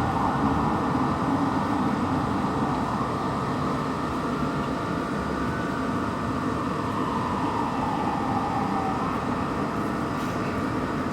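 Fire engine siren in a slow wail, falling and then rising in pitch, faint against a steady rumble of engine and road noise.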